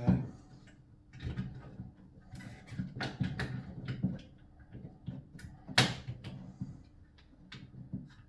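Irregular knocks, clicks and rattles of small parts and tools being handled, with one sharp clack about six seconds in.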